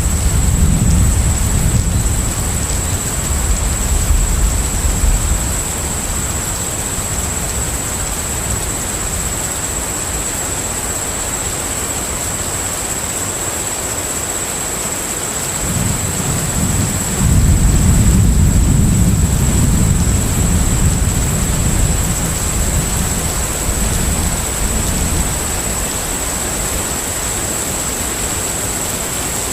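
Steady hiss of rain with rolling thunder: a low rumble at the start that fades within about five seconds, and another that builds about sixteen seconds in, peaks, and dies away by about twenty-five seconds. A thin, high, steady whine runs on top.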